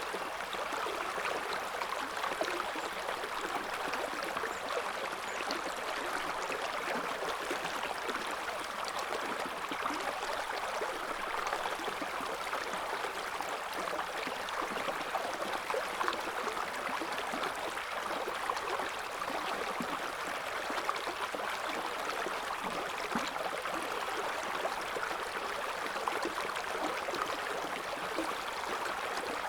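River water flowing over stones in a steady, even rush with fine bubbling and gurgling, no single splash standing out.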